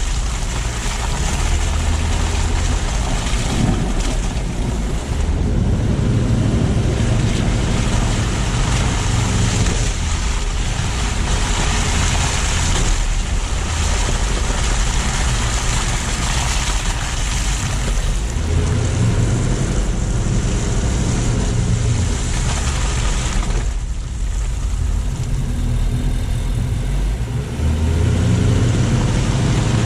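Car driving on snowy city streets: low engine and road rumble under a steady hiss of tyres on wet slush, swelling and easing as the car speeds up and slows.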